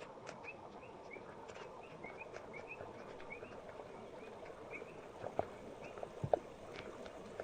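Birds chirping, short rising notes repeated several times a second over a faint outdoor hiss. Two sharper knocks come about five and six seconds in.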